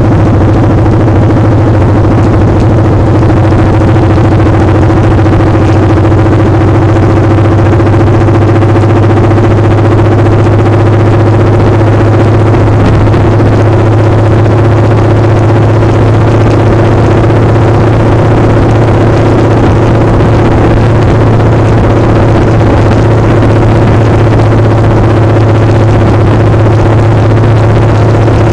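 Motorcycle engine running at a steady speed, a loud, constant drone whose pitch holds even throughout.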